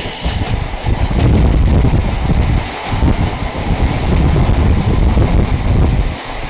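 Covered goods wagons of a fast freight train passing close by: a loud, steady rumble of wheels on the rails that dips briefly a few times, with wind buffeting the microphone.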